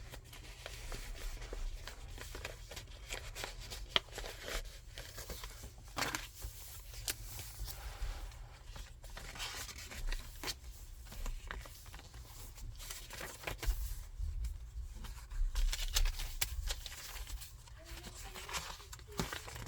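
Paper rustling and crinkling as the pages and cards of a thick handmade junk journal are turned and handled, with many short, irregular flaps and taps.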